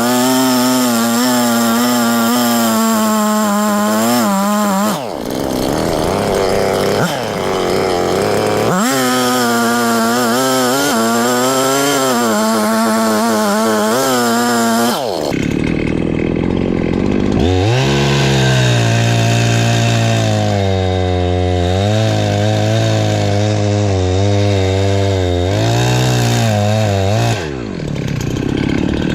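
Perla Barb 84cc two-stroke chainsaw running at high revs while cutting firewood, its engine pitch wavering as the chain loads in the wood. The revs drop back briefly about five seconds in and again near the end, and partway through the engine settles to a lower, steadier pitch.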